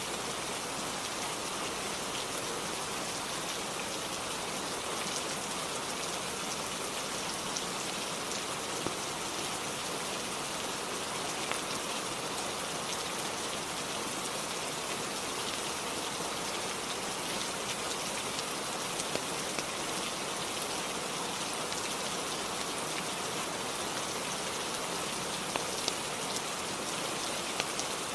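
Steady rainfall, an even unbroken hiss, with a few brief sharp ticks standing out near the middle and toward the end.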